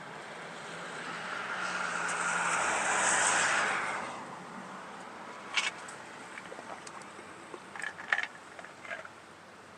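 A car passing close by, its tyre and engine noise swelling for a couple of seconds and fading away, followed by a few faint clicks.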